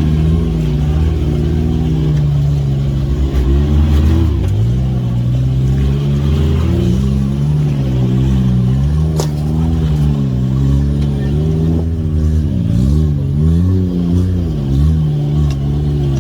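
Can-Am Maverick X3's turbocharged three-cylinder engine pulling the side-by-side along a trail, its pitch rising and dipping again and again with the throttle. A sharp knock about nine seconds in.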